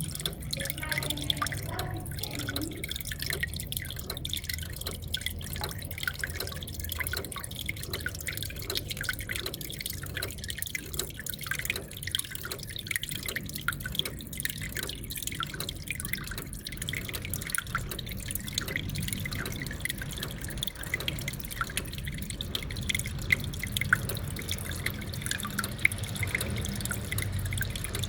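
Water trickling and dripping from a small aquarium waterfall into the tank, with many quick, irregular splashes.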